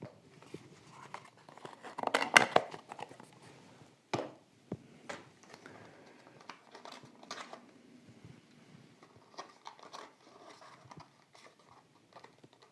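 Small cardboard box and plastic packaging of a diecast model car being handled, rustling and crinkling with scattered clicks and taps. There is a louder burst of crinkling about two seconds in and a sharp click about four seconds in.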